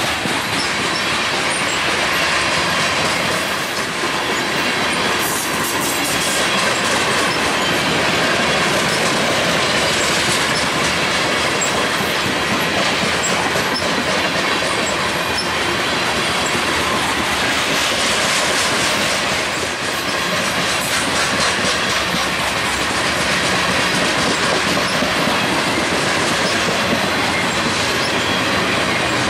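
BNSF freight train of open-top hopper cars rolling past: a steady rumble of wheels and clickety-clack over the rail joints. Two stretches of high-pitched squealing from the wheels come around five and nineteen seconds in.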